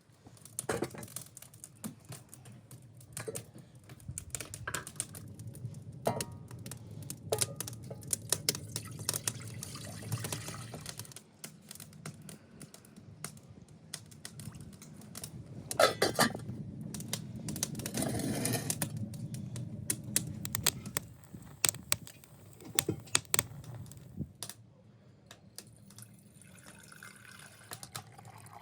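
Liquid splashing and trickling, with many scattered clicks and knocks.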